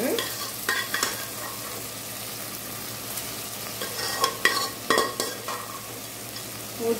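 Masala frying and sizzling in a stainless steel pot as pressure-cooked mutton pieces are spooned in and stirred, with a few knocks and scrapes of the steel ladle against the pot, about a second in and again around four to five seconds in.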